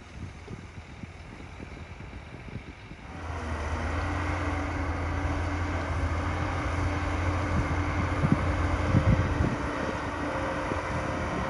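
Heavy diesel engine of earthmoving machinery (dump truck or bulldozer) running. About three seconds in it swells to a steady low drone, with a few knocks later on.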